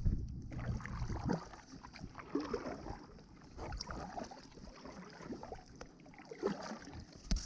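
Kayak paddle dipping into the water, with splashes, drips and small gurgles coming irregularly. A low rumble of wind on the microphone fades out about a second and a half in.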